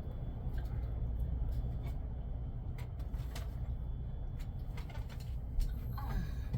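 Steady low rumble of background noise on board a ship, with scattered faint clicks and a short falling tone near the end.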